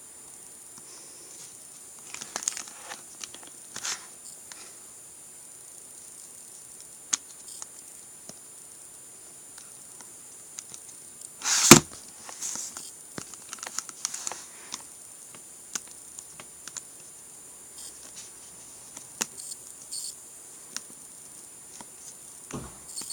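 Scattered clicks and rustles of a calculator being handled and its keys pressed, with one louder knock about halfway through. A faint, steady high-pitched whine runs underneath.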